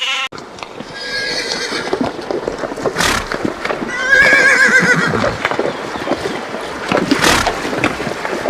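A horse whinnying: two quavering, shaky neighs, one about a second in and a louder one about four seconds in, with a few short sharp noises between them.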